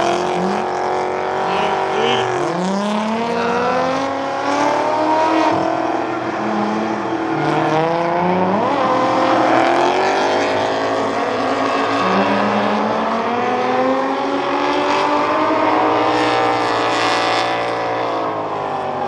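Drift cars running hard through a drift run, engines revving up and down over and over as the throttle is worked, with tyres squealing.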